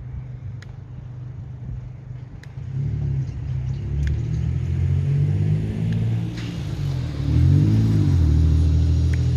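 A low, rumbling motor, much louder from about three seconds in, its pitch shifting up and down.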